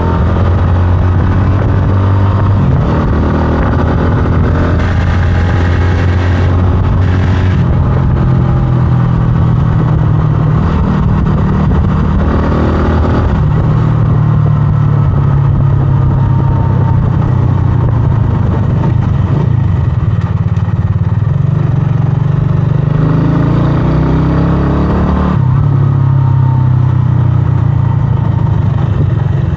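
A 125cc scrambler motorcycle's engine running while riding, its note stepping up and down several times as the throttle and speed change.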